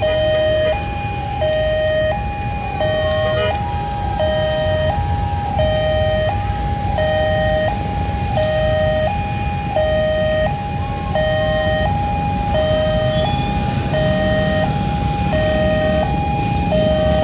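Railway level-crossing alarm sounding its two-tone warning, a steady hi-lo pattern switching between two pitches about every 0.7 s, signalling that the barriers are down for an approaching train. A low rumble of vehicles sits underneath.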